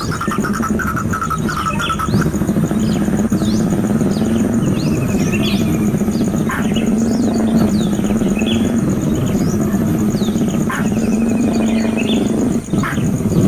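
Repeated short bird chirps and quick whistled sweeps over a steady low hum.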